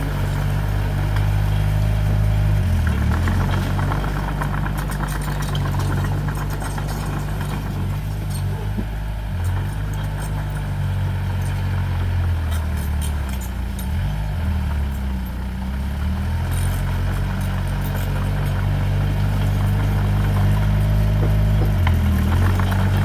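Heavy-equipment diesel engine running steadily, its speed dipping and recovering a few times as it takes load, with faint clicking and rattling over it.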